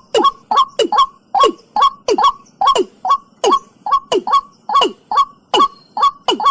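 Watercock (cúm núm) calling a steady run of falling notes, about two and a half a second, each opening with a sharp click: the second part of its two-part call.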